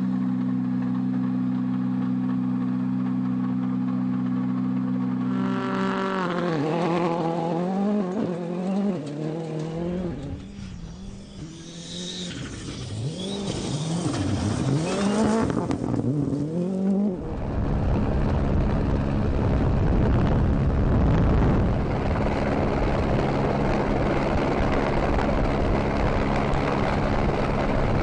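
Rally car engine holding a steady note, then revving up and down repeatedly through the gears, and from about two-thirds of the way through a louder, rougher run at high revs.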